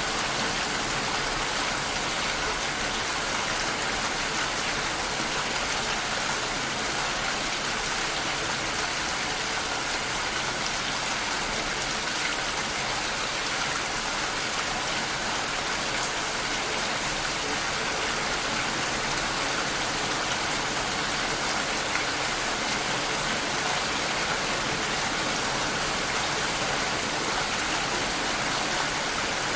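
Steady rain falling, heard through a glass door: an even hiss of many drops with no let-up.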